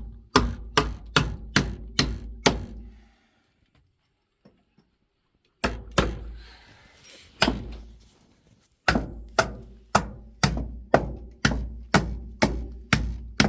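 Hammer driving nails: three runs of sharp, evenly spaced blows, about two a second, with short pauses between the runs.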